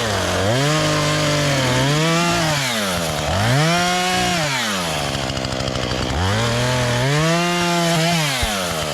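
Chainsaw engine revved up three times, each time held at high speed for a second or two and then dropped back to idle.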